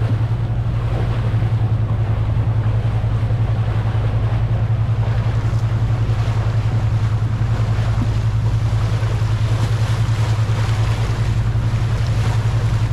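A boat's engine running at a steady speed, a constant low drone, with water rushing along the hull and wind buffeting the microphone.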